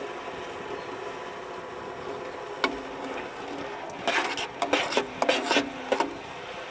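Wood and metal being handled: a single sharp knock about two and a half seconds in, then a run of clattering, scraping knocks for about two seconds, over a steady low hum.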